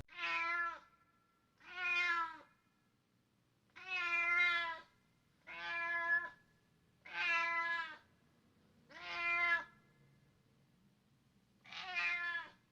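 A domestic cat meowing seven times, each meow about a second long, with short gaps between and a longer pause before the last one.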